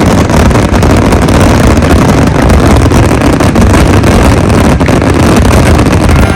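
Dense barrage of fireworks going off together, blending into one continuous loud rumble with many sharp cracks running through it, overloading the microphone.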